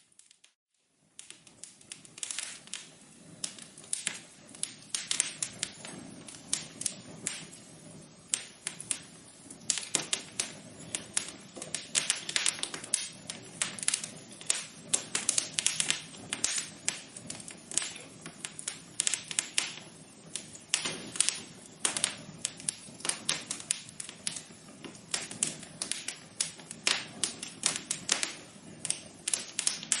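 Wood fire crackling in a fireplace: dense, irregular sharp pops and snaps over a faint steady hiss. The sound drops out for about a second at the start, then the crackling resumes.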